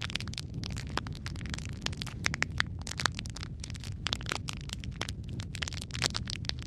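Wood fire in a fireplace crackling, with frequent irregular sharp pops and snaps over a steady low rumble of burning logs.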